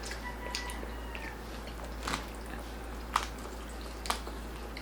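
Someone chewing crispy roast pork (lechon belly), with about four sharp crunches spread through the bites.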